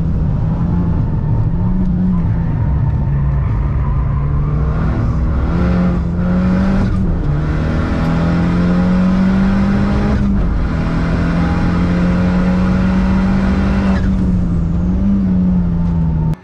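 Car engine running hard at high revs on a race track, its pitch holding fairly steady and dipping and rising again a few times.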